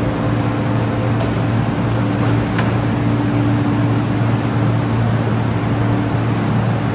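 MTR East Rail Line electric train's equipment humming steadily, a constant low drone with a whirring, fan-like noise, with two faint clicks in the first few seconds.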